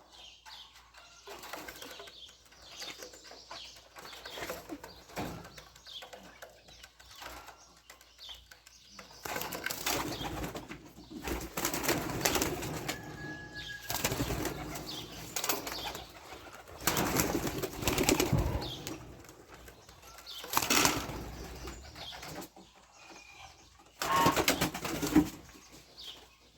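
Pigeons' wings flapping in a run of loud, noisy bursts, each about a second long, as young birds take off and flutter around the loft.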